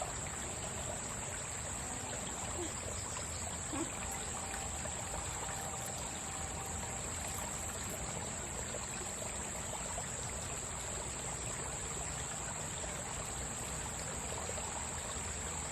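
A small stream running steadily over rocks, a continuous trickling and rushing of water. A steady high-pitched whine sits over it throughout.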